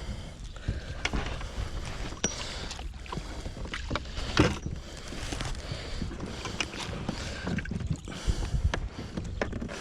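Water and hull noise around a kayak, a steady low rumble broken by scattered sharp clicks and knocks, while a hooked giant snakehead is being fought on the line.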